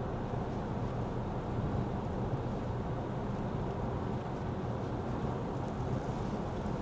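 Steady road and tyre noise heard from inside a Lexus ES 350 F Sport sedan driving on wet roads, with a faint low hum underneath.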